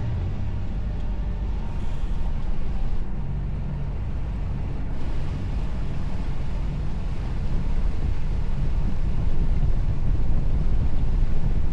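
A boat engine running steadily, its low drone mixed with wind buffeting the microphone; it grows a little louder toward the end.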